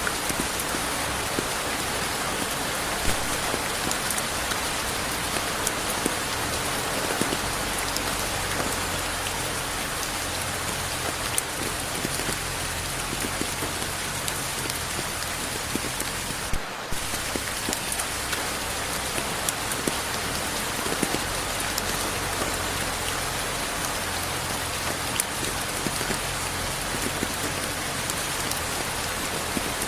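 Steady rain falling, an even hiss with many small drop ticks, and no thunder. The sound dips for a moment a little past halfway.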